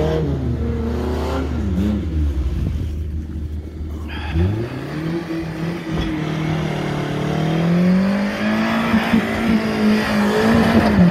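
4x4 SUV engine revving hard under load as it climbs a steep hillside. About four seconds in the revs rise sharply and then hold high as the vehicle nears the top.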